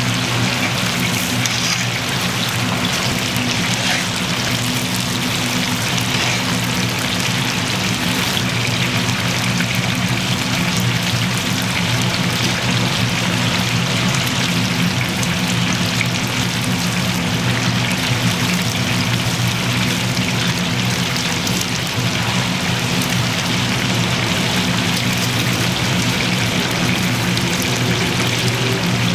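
Steady sizzle of food deep-frying in hot oil, over a low, steady hum.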